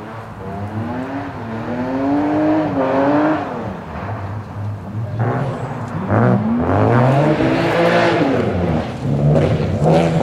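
BMW 325 coupe's straight-six engine revving hard as the car launches and accelerates away. The pitch climbs through each gear and dips briefly at the shifts, about three and a half seconds in and again around five to six seconds. The engine then holds high, wavering revs.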